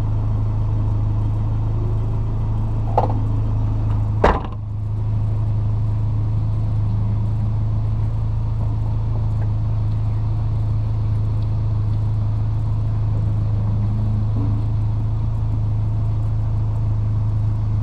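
Honda CRX's four-cylinder engine running at a steady, unchanging pitch, with two knocks about three and four seconds in, the second louder.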